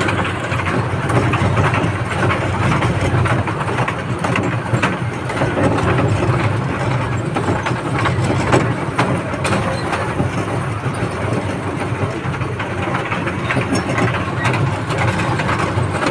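Passenger train running: a steady rumble with many small clicks and rattles throughout.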